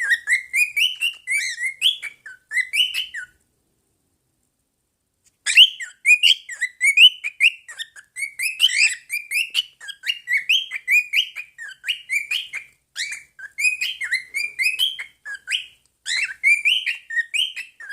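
Pet birds chirping and warbling in a rapid, continuous stream of short high notes, cut off for about two seconds of total silence a little over three seconds in, then resuming.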